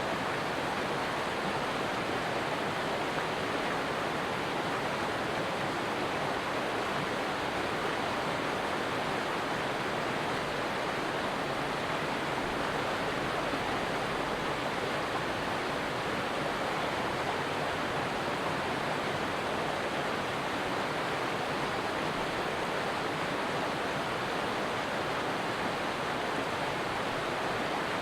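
Stream water running steadily, an even rushing sound that does not change.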